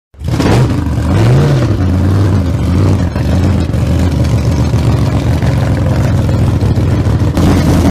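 A vehicle engine running. It is blipped once about a second in, rising and falling in pitch, then runs on with an uneven, fluttering beat before cutting off abruptly.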